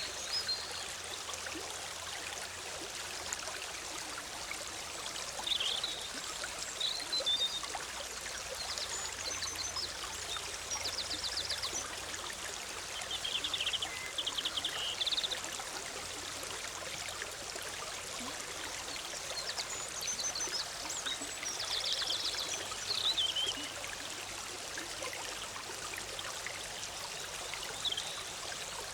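Forest stream flowing and bubbling steadily, with songbirds calling over it several times in short, high phrases, some of them quick trills.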